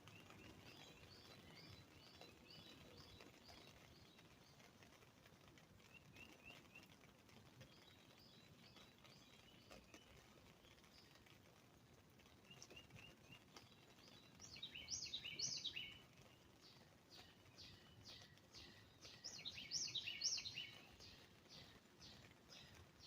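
Songbirds singing: runs of short, repeated chirps, with two louder bursts of song partway through and near the end.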